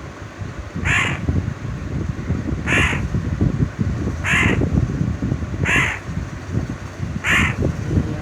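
A young crow cawing, five short harsh calls about a second and a half apart, over constant low rustling and knocking.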